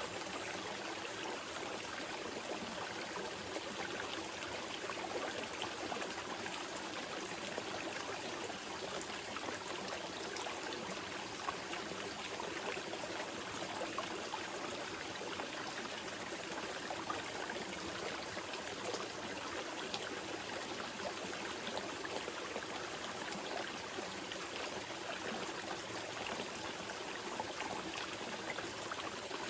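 A small mountain river flowing steadily over rocks, a constant splashing and trickling rush.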